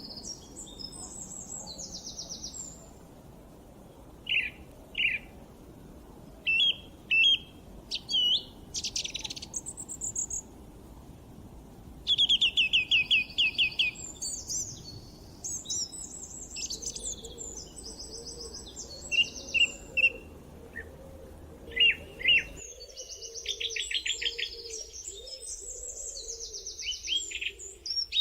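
Several birds singing and calling together: short chirps, whistled phrases and quick trills, including a loud rapid trill about twelve seconds in.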